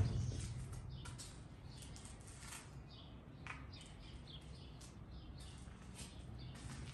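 Faint bird chirps: a few short, scattered calls over a quiet background. A louder running sound fades away in the first second.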